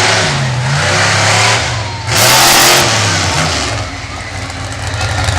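Monster truck engine revving up and down repeatedly, with a loud, harsh blast of noise about two seconds in.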